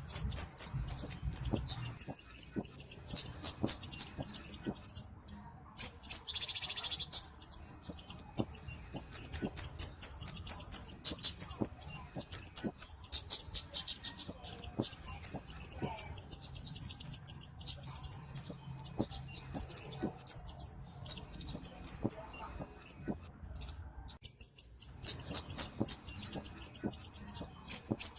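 Flowerpecker (kemade / cabe-cabean) calling in rapid runs of short, high, thin chirps, about eight to ten a second. The runs come in bouts with brief pauses, and a short hissing burst comes about six seconds in.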